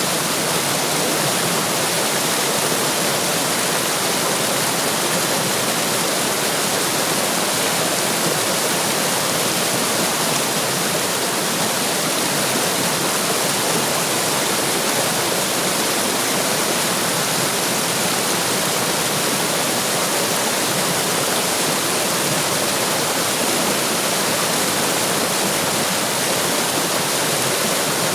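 Running water rushing steadily, an even splashing noise that neither rises nor falls.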